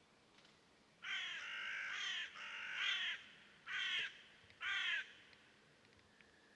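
A bird calling four times, starting about a second in: two longer calls followed by two short ones.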